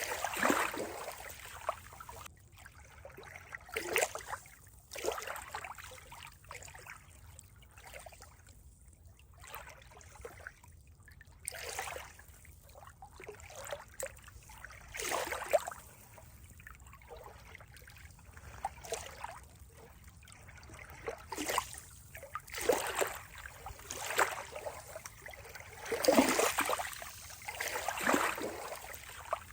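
Water trickling and splashing in irregular surges every second or two, the strongest near the start and near the end.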